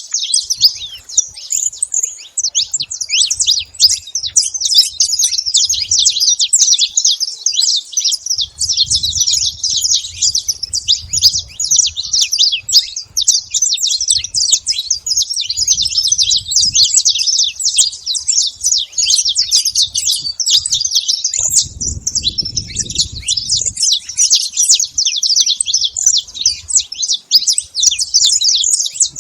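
Saffron finch singing: a continuous stream of rapid, high-pitched chirping notes, with a brief pause about three quarters of the way through.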